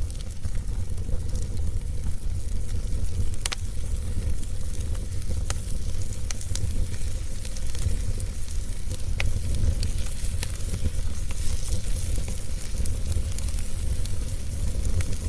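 Wood fire burning in a fireplace: a steady low rumble and hiss, with sharp crackles and pops every second or two.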